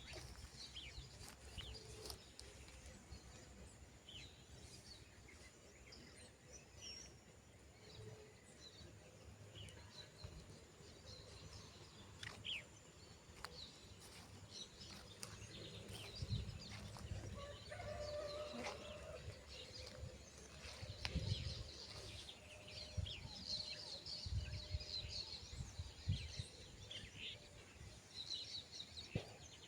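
Birds chirping, with chickens clucking, heard faintly; the chirps grow busier in the second half. Scattered low bumps run underneath.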